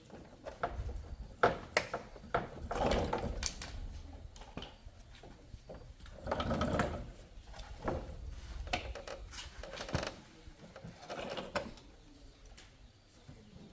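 Irregular clicks, taps and scraping of small parts and tools being handled during hands-on mechanical work, with a few longer bouts of rubbing.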